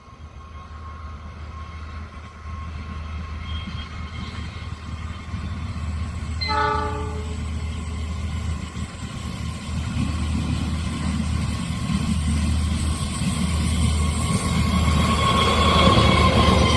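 Diesel train approaching, its engine hum growing steadily louder, with one short horn blast about six and a half seconds in.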